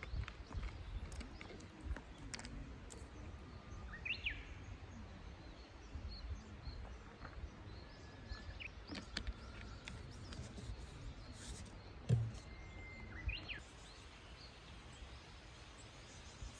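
Outdoor ambience with a low steady rumble, and a bird calling three times, each call a held whistle ending in a quick rising and falling flourish. A single dull thump sounds about three-quarters of the way through.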